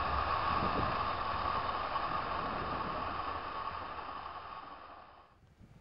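Running noise of the approaching Free Gauge Train, a steady rushing hiss that fades away about five seconds in.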